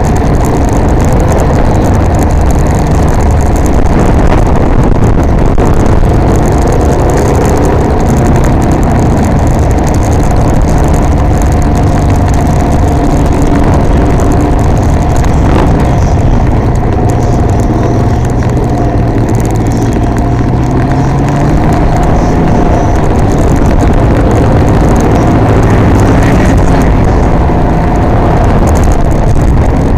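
Can-Am Ryker Rally 900's three-cylinder engine running while riding on city streets, its pitch rising and falling gently with speed changes.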